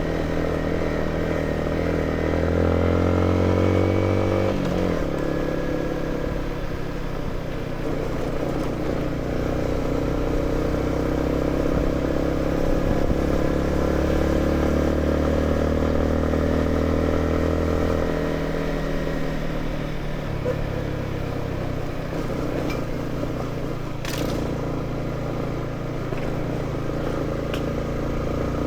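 Motorcycle engine running under way, its note climbing as it accelerates, dropping sharply about five seconds in, then rising again for a long pull before easing off.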